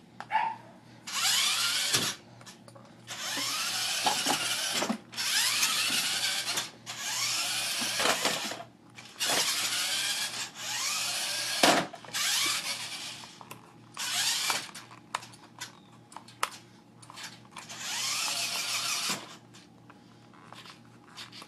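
Electric motor and gears of a remote-control toy truck whirring in repeated bursts of one to two seconds as it is driven in starts and stops, the whine rising and falling in pitch within each burst, with small clicks between.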